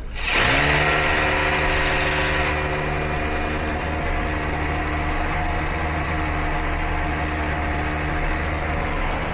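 SDS rotary hammer drill starting up and drilling steadily into the concrete for a garage door defender's fixing hole, kicking in suddenly about a third of a second in and running at a steady pitch.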